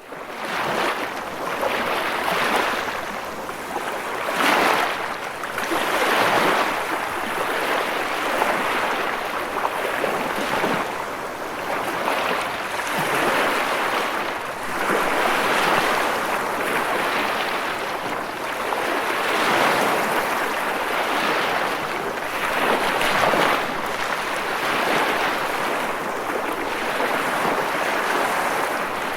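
Ocean waves breaking and washing on a shore, the surf swelling and easing every two to three seconds in a continuous rushing hiss.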